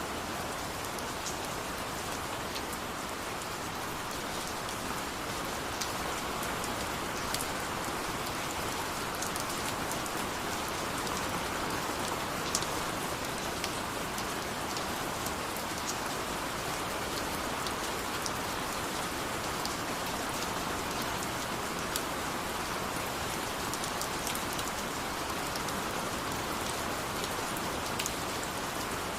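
Steady rain falling, a constant hiss of rainfall with scattered sharper drop ticks.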